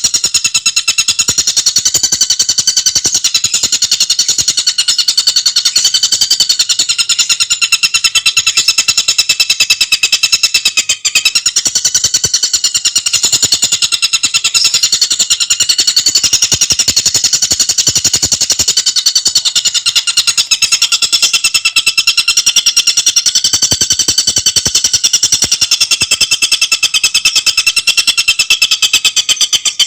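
Tengkek buto songbird giving a continuous, very rapid high-pitched chattering trill of tightly packed notes, with one brief break about eleven seconds in.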